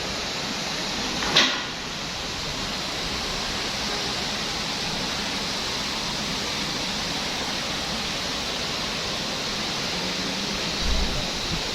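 Steady rain falling, an even hiss, with a short sharp knock about a second and a half in and a brief low thump near the end.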